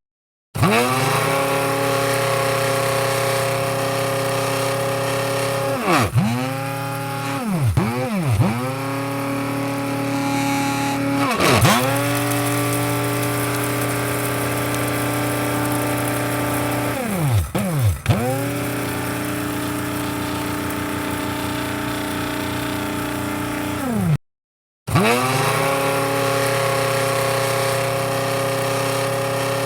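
Electric coffee grinder motor running with a steady whine; its pitch dips sharply and climbs back several times, around 6, 8, 11 and 18 seconds in. It cuts out briefly at the very start and again about 24 seconds in.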